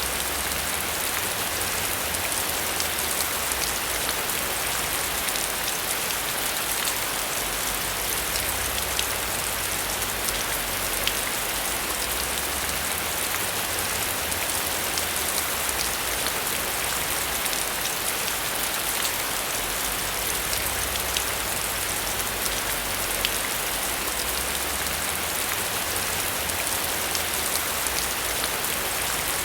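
Heavy rain falling steadily, a constant hiss with scattered sharper drop ticks and a low rumble that swells and eases.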